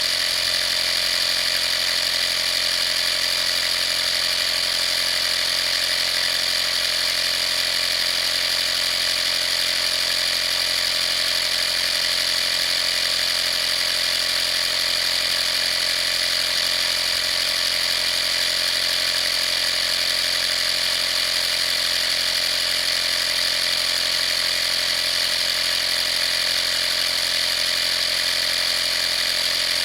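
12-volt air compressor running continuously at a steady, unchanging pitch, with a strong high whine over the motor and pump noise.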